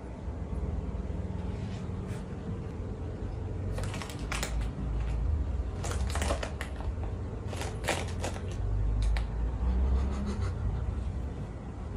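Clusters of sharp clicks and rattles, a few at a time about every two seconds, over a steady low rumble.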